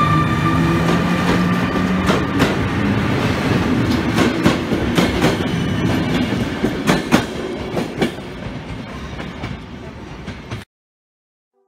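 Passenger train hauled by an EU160 (Newag Griffin) electric locomotive pulling out of the station. At first there is a whine that rises in pitch, then the coaches roll past with wheels clicking over rail joints, fading as the train moves away. The sound cuts off abruptly near the end.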